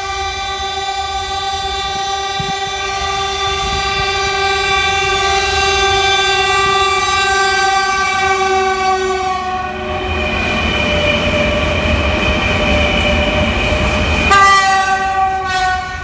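Horn of a 4ES5K electric locomotive hauling a freight train, sounded in one long, loud sequence. It holds a chord for about ten seconds, switches to a higher-pitched tone for about four seconds, then returns to the first chord, over the low rumble of the passing train.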